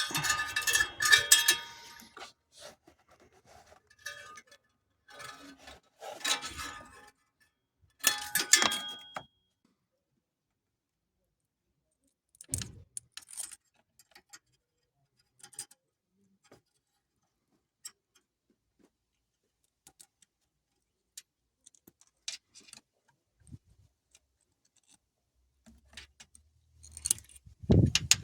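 Loose sheet-metal parts of a car's exhaust heat shield and hose clamp clinking and jangling as they are handled, in three short bursts over the first nine seconds, one ending in a brief metallic ring. Then scattered light clicks, and a louder clatter near the end.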